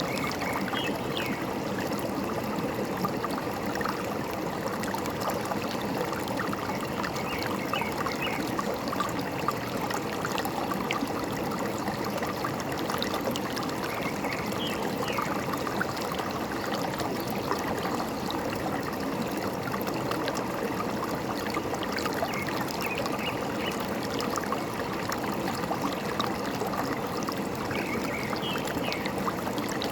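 Forest stream running and trickling steadily, with a few short bird chirps now and then.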